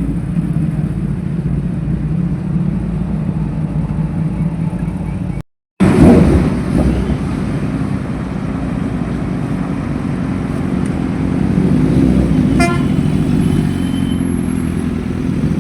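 Motorcycle engines running steadily, with a cut about a third of the way through followed by a louder surge. A short horn toot sounds near the end.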